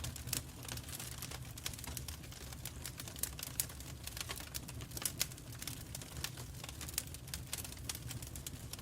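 Wood fire burning in a fireplace, with irregular crackles and pops over a low steady rumble of the flames.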